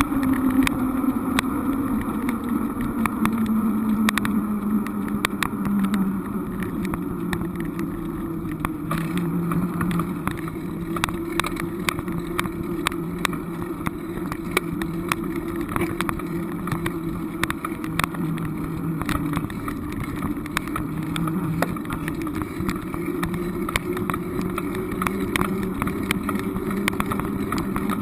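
Steady drone of a motor vehicle under way, its engine note dipping slightly over the first few seconds and then holding level, with scattered light clicks over it.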